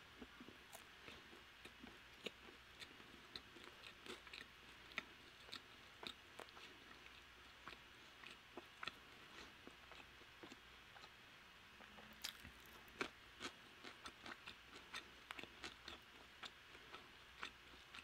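Quiet chewing of crispy Korean fried chicken, with irregular small crunches and mouth clicks throughout and a busier patch of crunching about two-thirds of the way in.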